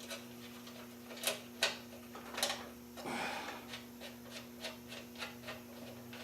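Hand work on metal parts: scattered clicks and knocks of tools and bolts being handled, a short scraping rub a little after halfway through, then a run of small light ticks, over a steady hum.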